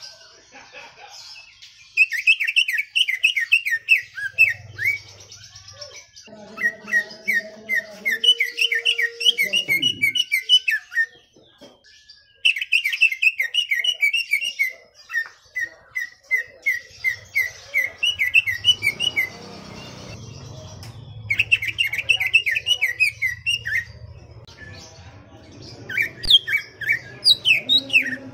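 Cucak ijo (green leafbird) singing in full song: fast runs of rapidly repeated high chirping notes, in about half a dozen bouts with short pauses between them. A faint low hum sits under the second half.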